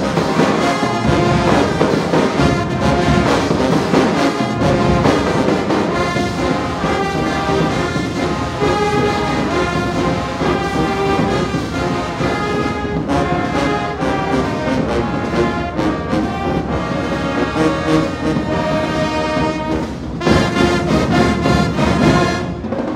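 High school marching band playing: a loud brass section of trombones and trumpets in full chords over drums, cutting off near the end.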